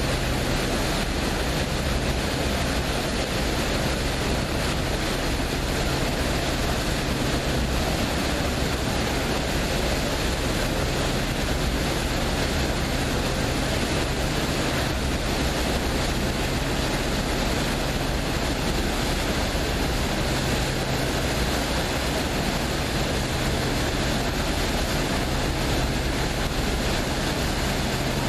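Steady low hum of a passenger boat's engine, under an even rush of water along the hull and wind.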